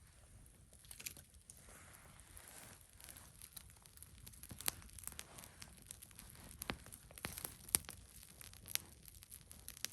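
Wood campfire crackling, with irregular sharp pops, the loudest a little after the middle and near the end.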